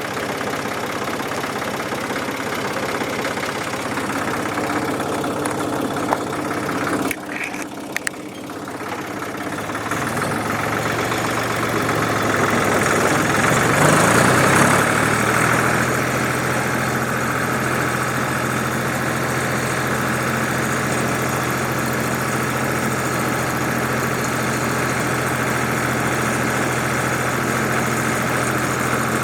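1967 Ford 2000 tractor's three-cylinder engine running while being warmed up to heat its oil. About ten seconds in it speeds up, rising in pitch over a few seconds, then runs steadily at the higher speed.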